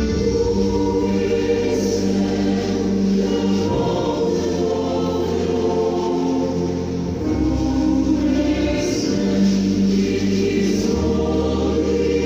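Choir singing held chords, moving to a new chord every three to four seconds.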